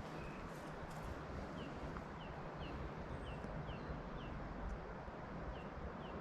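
Small birds chirping: a run of short, falling chirps, about two a second, over a steady low outdoor background hiss.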